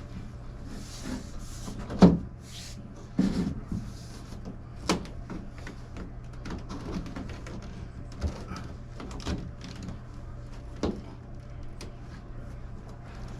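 Scattered knocks, clicks and rattles of hands-on electrical conduit work, the loudest about two seconds in, over a steady low hum.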